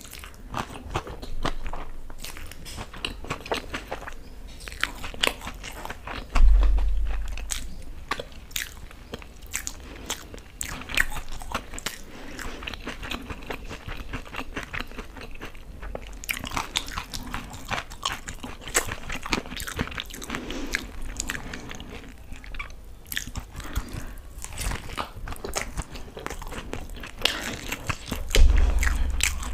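Close-miked eating: crunchy biting and wet chewing of sauce-soaked fried chilli pakodas, thick with clicks. Two dull low thumps stand out, about six seconds in and near the end.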